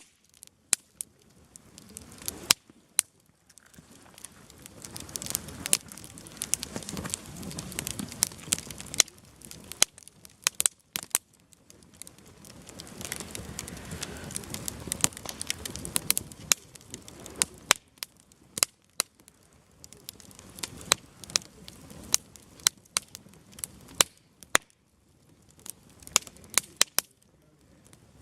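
Wood fire burning in a campfire stand, crackling with frequent sharp pops from the burning firewood. Swells of soft rushing noise rise and fade several times, each lasting a few seconds.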